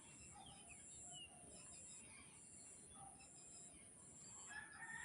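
Faint rooster crowing, a held call starting near the end, over quiet village ambience with scattered small bird chirps.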